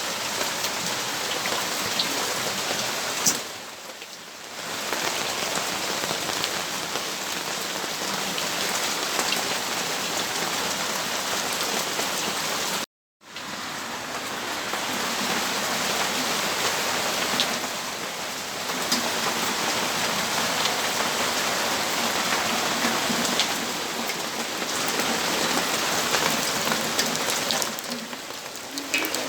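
Steady rainfall, a continuous hiss with scattered individual drops ticking on nearby surfaces. It eases briefly about four seconds in, and the sound cuts out completely for a moment about halfway through.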